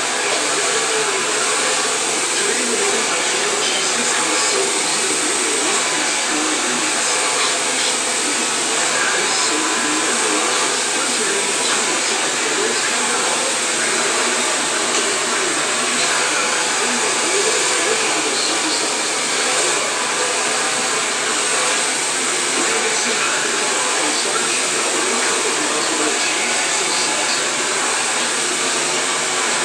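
Hair dryer running steadily: a continuous, even rush of air and motor noise that doesn't change in level.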